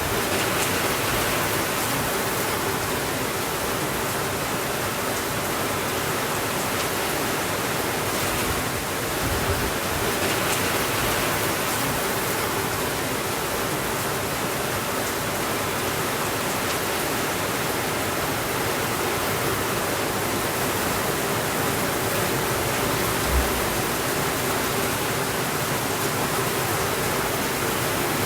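Steady, even rainfall hiss with no thunder. A single brief low thump is heard about three-quarters of the way through.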